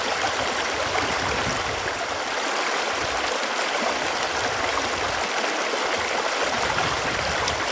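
Running water flowing steadily, an even rushing sound with no breaks.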